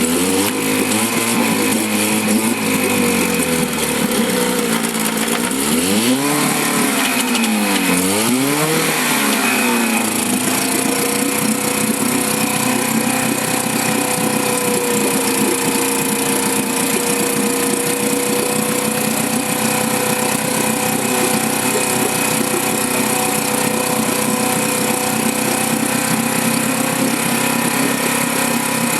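1954 Johnson CD-10 5.5 hp two-stroke outboard motor running in a test barrel. Its speed wanders and is revved up and back down twice in quick succession in the first ten seconds, then it settles to a steady run.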